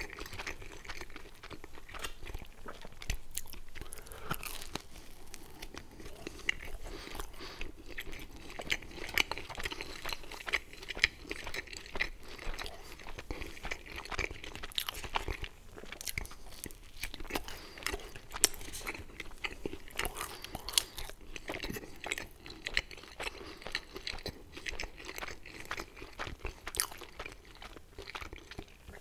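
Close-miked chewing and biting of pizza and baked dough rolls: a dense, irregular run of small clicks from the mouth.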